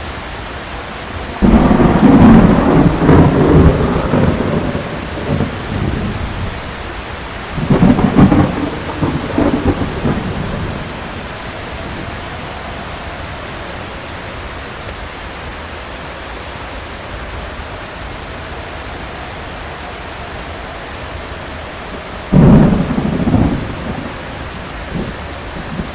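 Heavy rain falling steadily, broken by three rolls of thunder: a long one a second or two in, another about a third of the way in, and a shorter one near the end.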